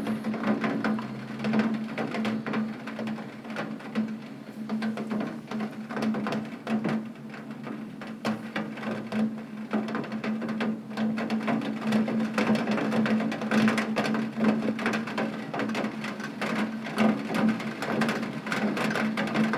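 Heavy rain pattering on a window pane: a dense, irregular stream of drop taps that thickens and thins, over a steady low hum.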